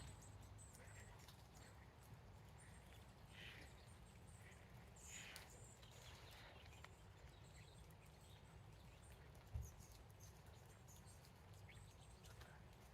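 Near silence: faint footsteps on a walking path, with faint high bird chirps in the distance and one soft low thump about three-quarters of the way through.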